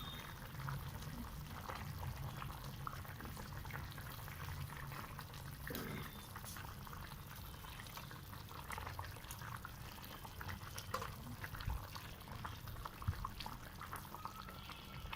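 Tamarind fish-curry broth boiling in a pot, a steady bubbling, with scattered small clicks and splashes as pieces of fish are dropped into it.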